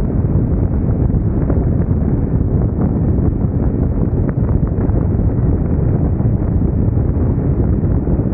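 Yamaha YZF-R1 crossplane inline-four running through its Akrapovic exhaust at a steady pace, without revving, largely buried under heavy wind noise on the microphone.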